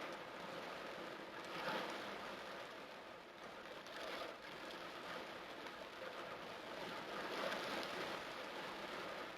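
Torrential rain pouring down in a steady hiss, swelling and easing a few times.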